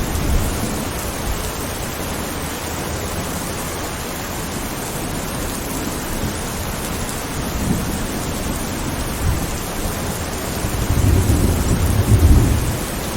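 Steady rain with low rolls of thunder: a short rumble about eight seconds in and a longer, louder one near the end.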